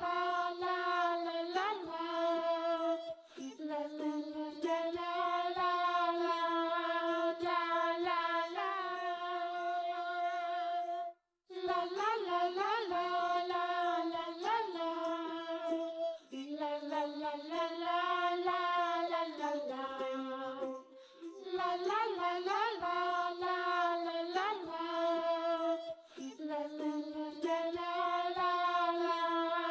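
Background music: a children's song sung by a high, child-like voice in phrases of held notes, with a short break about eleven seconds in.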